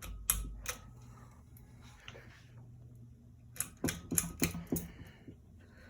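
Hampton Bay Landmark III Plus ceiling fan's pull-chain speed switch clicking twice as the fan is switched from high down to low, then a quick cluster of lighter clicks and rattles about three and a half seconds in. A faint low hum from the fan motor runs underneath.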